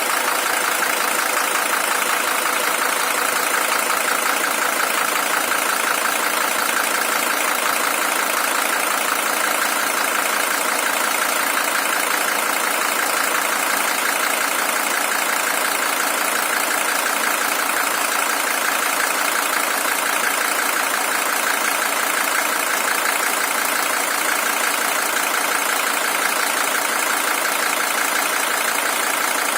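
Mercedes-Benz W123 300TD's OM617 five-cylinder diesel engine idling steadily. It is the original engine, with 620,000 km on it.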